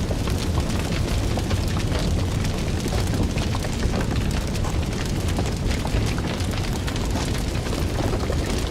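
Fire burning and crackling: a steady low rumble under dense, irregular small pops and snaps.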